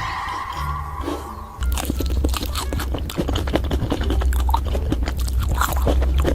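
Close-miked mukbang eating: loud, rapid crunching and chewing of crisp food, which begins about a second and a half in after a steady high tone.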